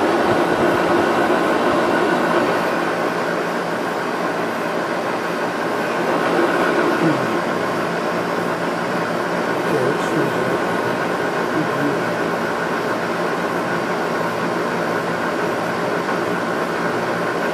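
Window air conditioner running steadily after cleaning, its fan blowing and compressor on, cooling hard enough that the coils are freezing up.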